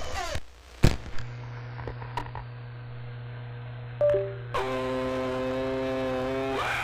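CB radio receiving an unmodulated key-up: a sharp click as a station keys in, a steady low hum of the open carrier, then a short two-note beep and a buzzy steady tone of about two seconds that cuts off near the end.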